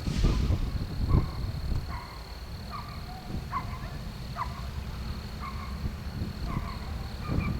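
Short animal calls repeating every half second to a second, over a low steady rumble, with a thump at the start and another about a second in.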